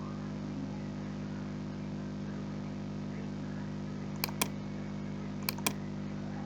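Two pairs of quick computer mouse clicks, about four and five and a half seconds in, over a steady low electrical hum.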